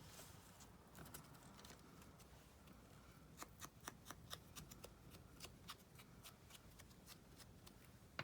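Faint handling of paper and small craft tools: a quick run of light clicks and taps from about three to six seconds in, otherwise near silence.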